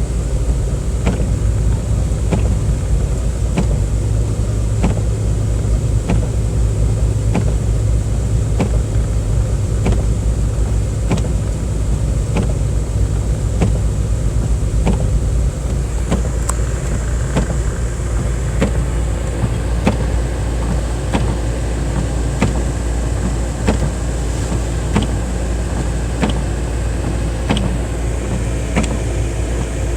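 Car driving on snowy roads, heard from inside the cabin: a steady low engine and road rumble with a regular sharp tick about one and a half times a second.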